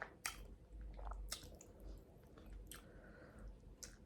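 A person chewing food close to the microphone, with four or five soft wet smacks and clicks of the mouth spread through the chewing.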